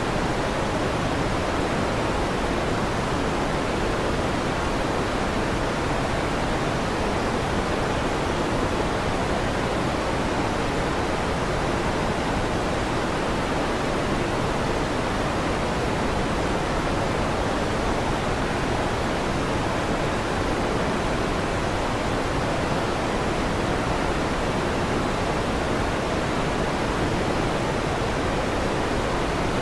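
Electric fan noise mixed with a thunderstorm rain track, heard as an even, unbroken hiss. No thunderclap is heard.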